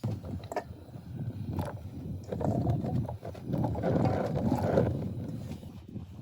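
Spoon stirring liquid tteokbokki soup in a pot: an uneven sloshing and scraping that swells in the middle and fades near the end.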